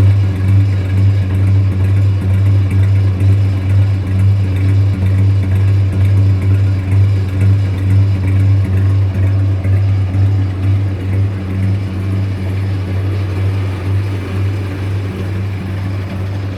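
Ford Cargo 2114 truck's diesel engine idling steadily through a modified, switch-operated loud exhaust, a deep even rumble that eases off slightly near the end.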